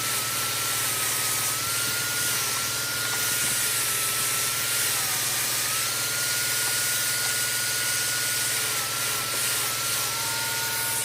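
An electric power tool's motor running steadily with a high whine that dips slightly in pitch now and then, as if under load.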